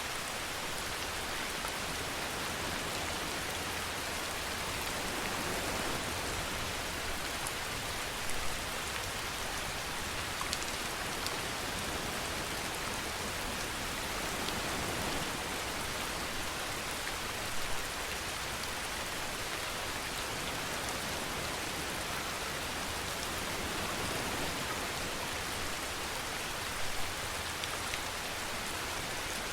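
Steady rain falling in an even hiss, with a brief louder patch of drops about every nine seconds.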